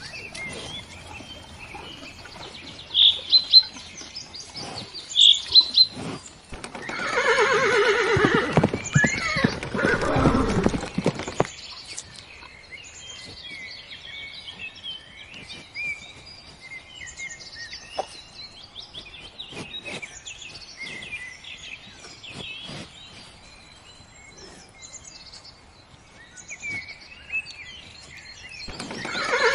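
A horse whinnies once: a loud, wavering call lasting about four seconds, starting about seven seconds in. Birds chirp faintly around it, and a second whinny begins near the end.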